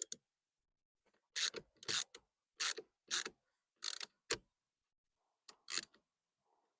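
Hand bit driver turning the turn signal switch's mounting screws, in about seven short clicking bursts with pauses between them.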